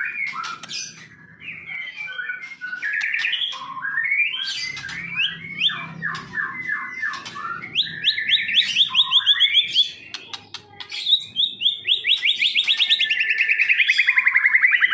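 Songbird singing: a varied run of whistles and chattering notes, turning about eight seconds in to fast, even trills. The last long trill slides steadily down in pitch near the end.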